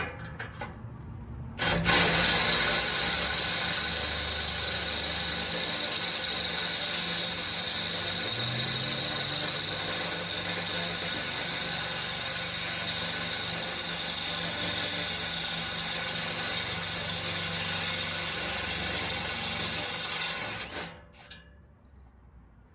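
Power drill boring a half-inch hole through steel, running steadily under load with a high whine, starting about two seconds in and cutting off near the end.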